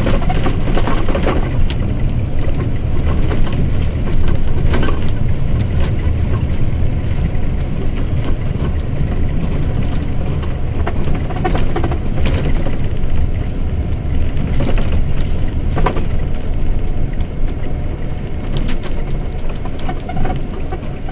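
Mercedes-Benz OF-1722M bus running, a steady low engine and drivetrain rumble with scattered short rattles and knocks.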